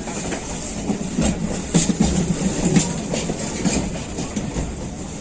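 Howrah suburban electric local train (EMU) running on the rails: a steady rumble and hiss with irregular clacks of the wheels.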